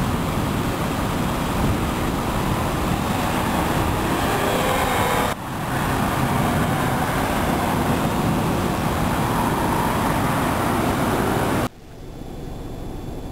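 Steady roadway traffic noise with no clear pitch, cut off abruptly twice; after the second break it carries on much quieter.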